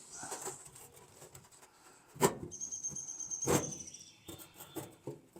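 Steel pry bar scraping and clanking as it is worked in against the pickup bed's sheet metal and cross member: two sharp metal clanks a little over a second apart, with a high ring hanging on between and after them, then a few lighter knocks.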